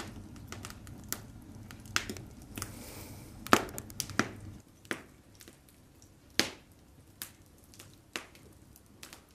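Wood fire crackling in a fireplace: sharp, irregular pops and snaps, some loud, over a low background rumble that stops about halfway through.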